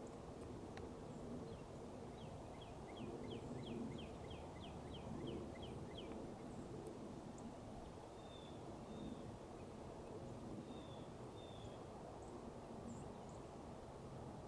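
A songbird singing a run of about a dozen quick falling whistled notes, followed later by a few short high calls, over a steady low background rumble.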